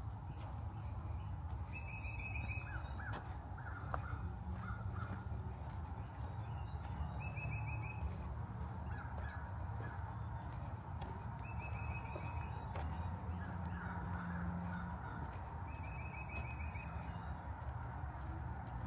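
Birds calling: a short, high trilled call repeats about every five seconds, with other lower calls in between, over a steady low rumble.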